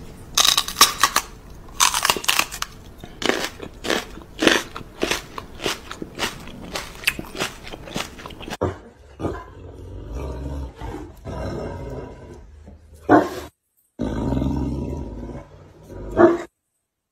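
Loud crunching like crunchy food being chewed right at the microphone: a fast, irregular run of crunches for about eight seconds. After that, softer, scuffling noises follow.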